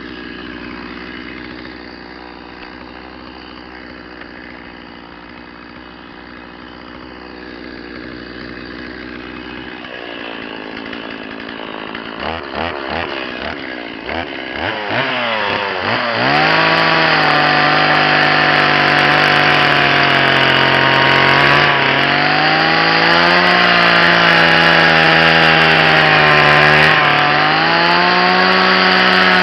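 Chainsaw running, quieter at first, then revved up unevenly between about ten and sixteen seconds in. After that it runs loud at high speed, its pitch sagging and recovering as the chain cuts into the maple trunk.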